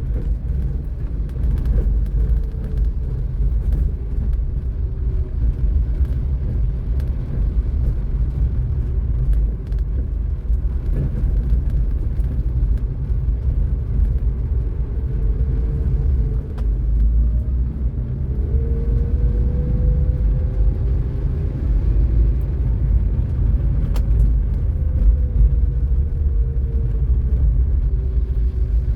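Road noise while driving: a steady low rumble, with engine tones rising and falling several times, clearest in the second half.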